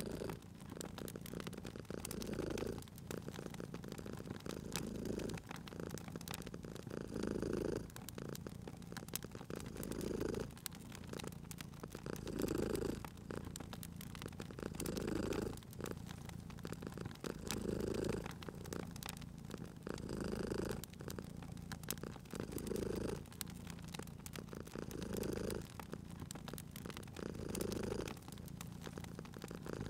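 Domestic cat purring, swelling and easing in a steady breathing rhythm about every two and a half seconds. A wood fire crackles with scattered small pops underneath.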